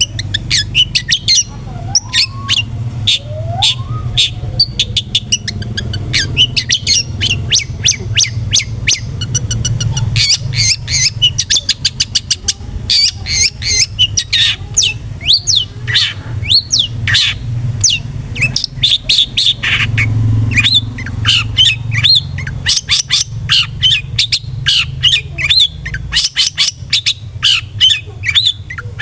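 Long-tailed shrike (cendet) calling in a long run of rapid, harsh, chattering notes, the agitated 'emosi' singing that is played to provoke other shrikes. A low hum in the background stops a few seconds before the end.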